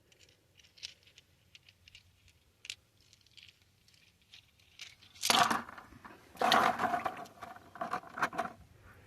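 Rocks being handled in a bucket of rainwater: light clicks and taps, then from about five seconds in louder stretches of stones knocking and rattling together with water.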